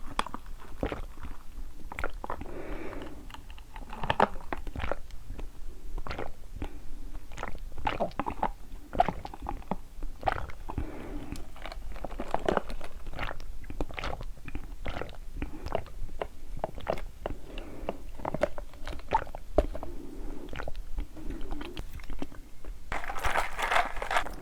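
Close-miked chewing of boba tapioca pearls: a steady run of wet mouth clicks and squishes, with a louder, fuller noisy stretch near the end.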